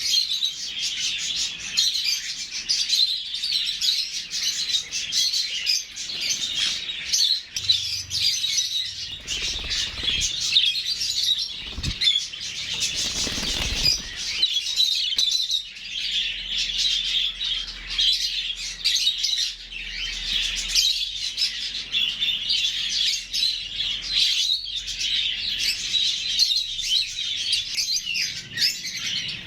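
A large flock of small parrots chirping and chattering continuously, many calls overlapping.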